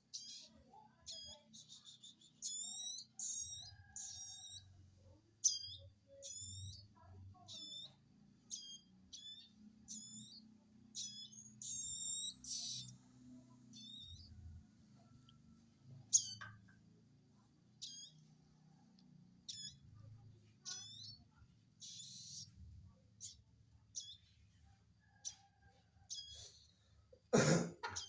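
Baby prenjak birds giving short, high begging cheeps again and again, about one or two a second, as they are hand-fed. A single sharp knock near the end.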